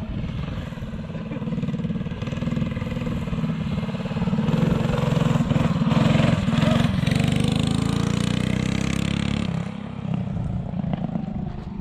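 Mini bike's small engine running hard as it is ridden past. It gets louder about four seconds in and drops away suddenly near the end.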